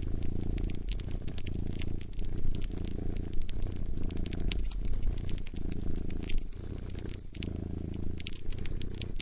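A cat purring close up, rising and falling about once a second with each breath, over a wood fire crackling with scattered sharp pops.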